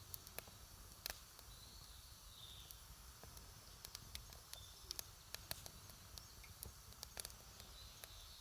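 Wood campfire crackling: scattered sharp pops and snaps, irregular and a few per second, over a low steady rumble.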